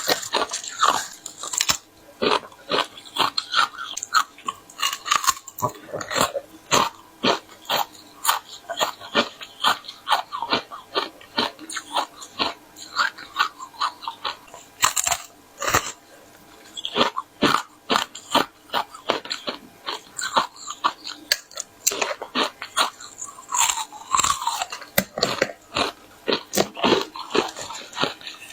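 Frozen ice being bitten and chewed close to the microphone: a steady run of sharp, irregular crunches and cracks, several a second.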